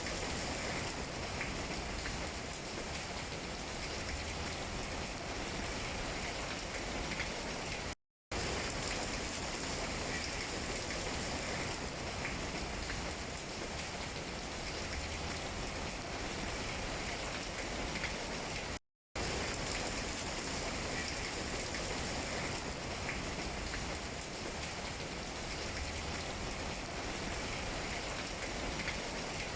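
Steady rain falling on tree leaves, an even tapping of raindrops that cuts out twice for a split second, about eight and nineteen seconds in.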